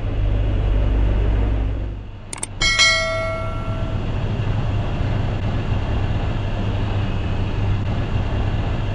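Steady low rumble of city street traffic. About two and a half seconds in, a couple of clicks come before a single bright metallic ring that fades over about a second.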